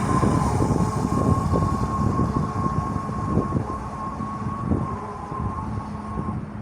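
RS S80 fishing bait boat sounding a steady high-pitched signal tone that confirms its home point has been saved; the tone stops shortly before the end. Wind rumbles on the microphone throughout.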